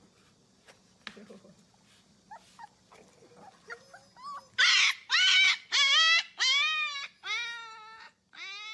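A puppy howling in a run of about six high, drawn-out calls, each rising and then falling in pitch, starting about halfway in. The later calls are softer. Before them there are only faint small clicks and rustles.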